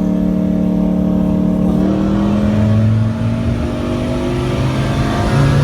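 A car engine running hard under load, its note held steady at first, then changing about two seconds in and climbing slowly in pitch as it pulls.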